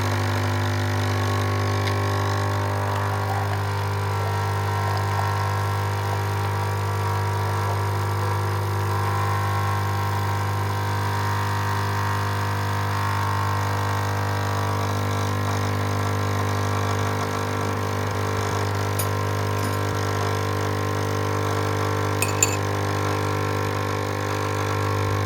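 A steady engine hum with a constant low drone, unchanging in pitch, with a few faint clicks.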